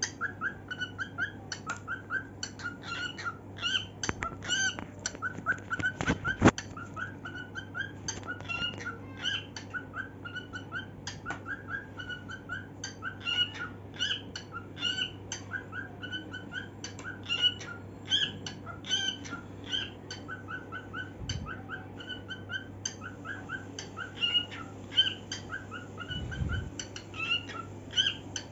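Cockatiel chirping and whistling in a fast, continuous string of short, repeated notes, several a second. A single sharp tap about six seconds in, and a steady low hum underneath.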